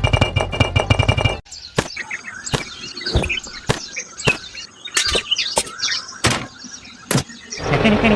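Background music that cuts off about a second and a half in, followed by scattered sharp clicks and high chirping squeaks.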